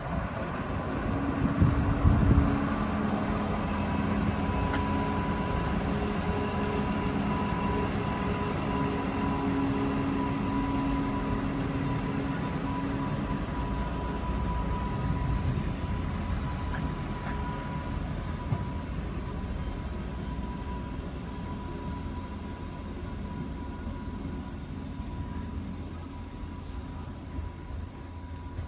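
Diesel train running: a steady engine drone and rail rumble with a thin high whine, loudest about two seconds in and slowly fading after.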